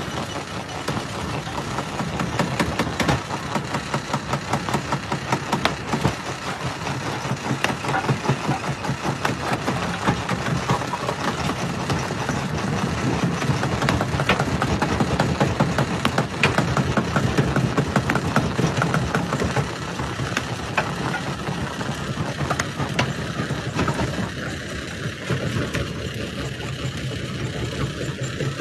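Jaw-type rock crusher running, a steady low machine drone over dense, rapid cracking and clattering of stone being crushed. The cracking thins out somewhat over the last few seconds.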